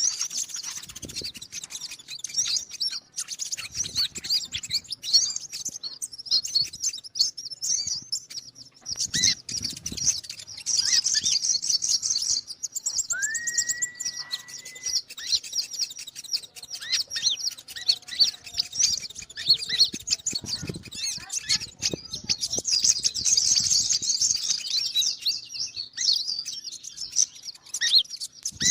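Olive-backed sunbird (kolibri ninja) song: dense, rapid, high-pitched chirps and trills in a continuous stream, with one short steady whistle about halfway through. This is a call recording of the kind played to lure small birds.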